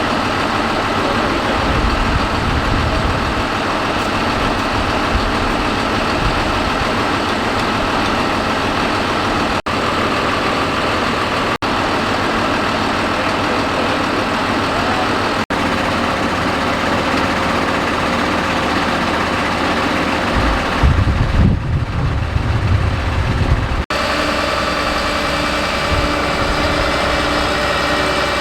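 Fire engine idling steadily, a constant low engine hum with a few steady tones above it. About three quarters of the way through there is a louder, uneven low rumble for a few seconds.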